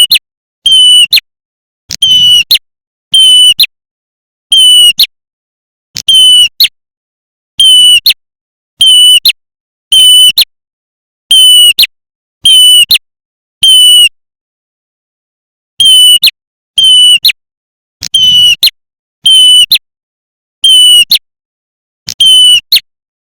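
Lure recording of a prenjak merah (red-headed prenjak) calling: loud, harsh half-second bursts repeated about once a second, strongest around 3 kHz, with a pause of about two seconds around the middle.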